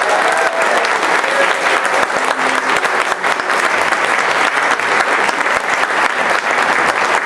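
Audience applauding steadily after a song, with a sung or cheered voice trailing off in the first second.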